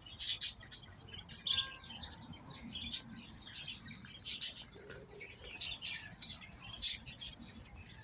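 Small birds chirping: many short, high chirps at irregular intervals, several to a second at times.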